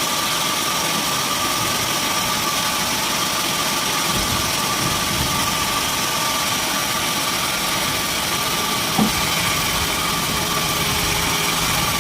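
Sawmill machinery running steadily, with a constant whine over the noise and a single short knock about nine seconds in.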